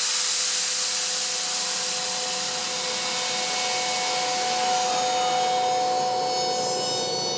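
Atlas Copco ZR200 oil-free two-stage rotary tooth air compressor running, a steady whine of several tones under a loud hiss of air that dies down partway through.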